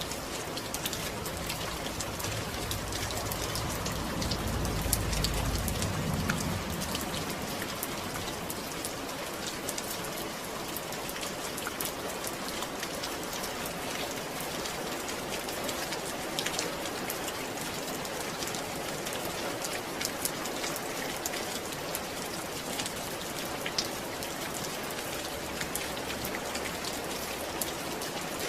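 Steady rain falling, with dense fine drop ticks over an even hiss. A brief low rumble swells about four to six seconds in.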